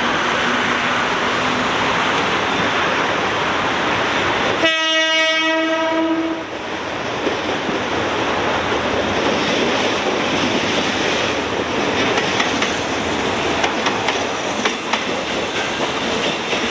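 Passing train, running with a steady rumble and a rhythmic clickety-clack of wheels over rail joints. About four and a half seconds in, its horn sounds once, a single long note lasting about two seconds.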